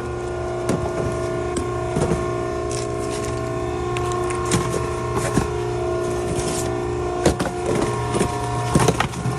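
Maren baler running with a steady hydraulic hum made of several tones, some of which shift in pitch partway through. Over it come scattered sharp cracks and knocks, loudest about seven and nine seconds in.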